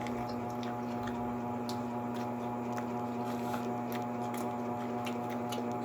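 Steady electrical hum with faint, scattered small clicks and taps.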